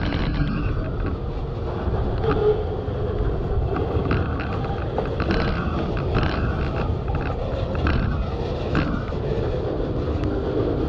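Boxcars of a slow-moving freight train rolling past: a steady low rumble of wheels on rail, with scattered short clicks and squeaks.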